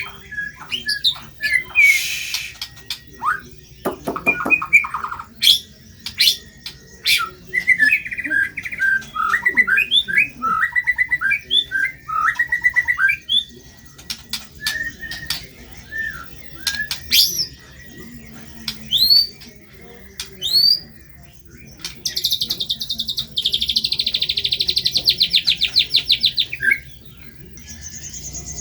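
White-rumped shama singing a varied song of sharp chips, quick whistled sweeps and warbled phrases. About two-thirds of the way in comes a rapid buzzing trill lasting about five seconds.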